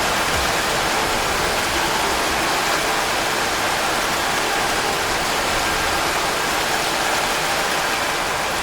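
Steady rainfall, an even, unbroken hiss of rain at a constant level.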